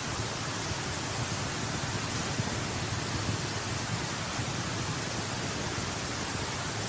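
A steady, even hiss of noise with no separate crackles, knocks or other events.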